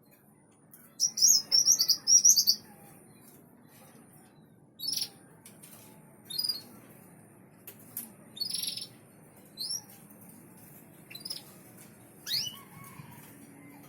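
Small songbird singing: a loud, fast run of high chirps about a second in, then single sharp chirps and short upswept calls spaced a second or so apart.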